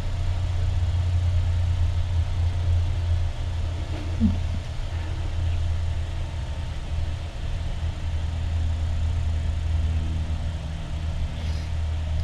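A low, steady rumble with short dips every second or two.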